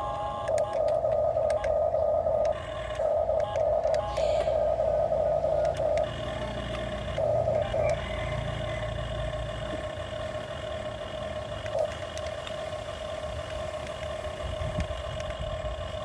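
Excavator working, a steady high whine over a low engine rumble, growing louder in several stretches of one to two seconds during the first half.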